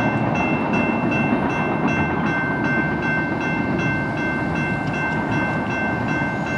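BNSF mixed freight train cars rolling past on the mainline, a steady rumble of wheels on rail. Over it a steady high ringing tone with a faint regular pulse runs on and cuts off near the end.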